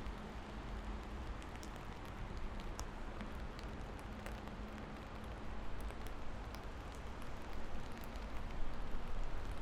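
Steady rain falling, with scattered individual drops ticking sharply over the hiss and a deep rumble underneath.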